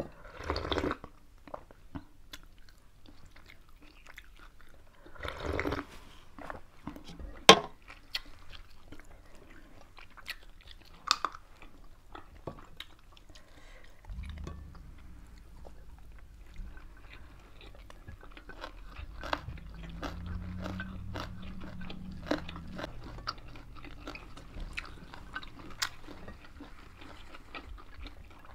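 Close-up eating sounds of two people: chewing, biting and crunching of rice, pork and fresh leafy greens, with many sharp little clicks and smacks. A low hum comes up in the background for several seconds midway.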